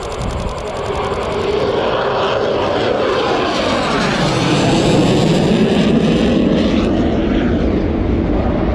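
Aircraft flying low overhead, its engine sound swelling and then dropping in pitch about four seconds in as it passes.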